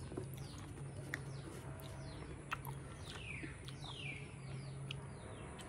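Faint birds chirping: a run of quick, falling chirps, several a second, over a low steady hum.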